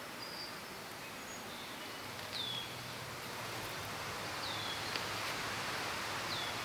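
Woodland ambience: a bird repeating a short, high, downward-sliding call about every two seconds, with a few other brief chirps, over a steady hiss.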